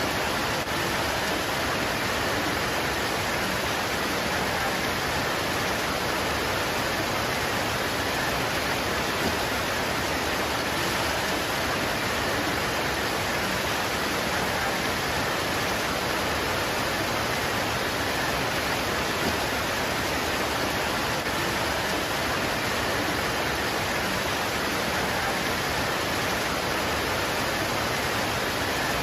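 Rain pouring steadily onto leaves, an even, unbroken rush of noise with no rise or fall.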